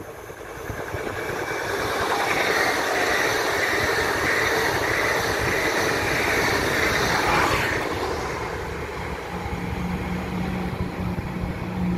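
Pesa Dart ED161 electric multiple unit passing at speed: a rushing noise of wheels on rails that builds, is loudest for about five seconds as the train goes by, then fades away. Near the end a steady low hum sets in.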